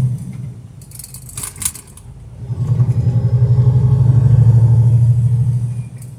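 Semi truck's diesel engine running loud under load, heard from inside the cab. It drops away just after the start, with a short hiss about a second in, then pulls strongly again for about three seconds before easing off near the end.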